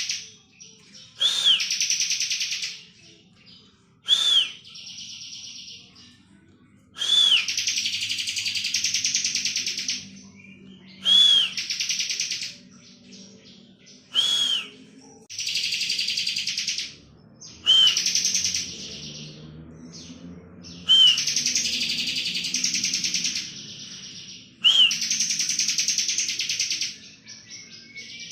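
Bar-winged prinia (ciblek) singing its 'ngebren' song: repeated phrases, each a short sharp high note followed by a fast, buzzy trill lasting one to two seconds, coming about every three to four seconds.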